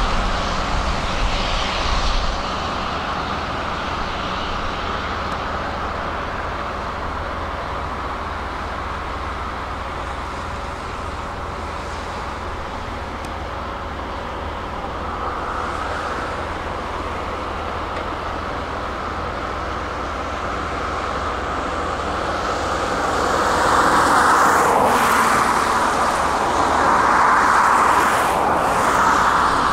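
Diesel engines of a Hitachi 225 USR excavator and a Volvo truck running steadily. The noise grows louder in the last few seconds, with a couple of short knocks near the end.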